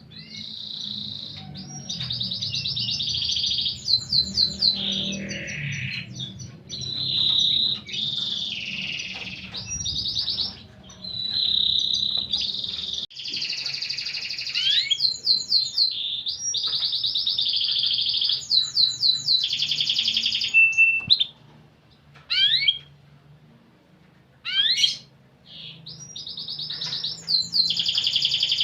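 Domestic canary singing a long, varied song of rapid trills, rolls and fast repeated sweeping notes. About two-thirds of the way through, the song breaks into a few separate swooping notes for several seconds, then the trilling resumes.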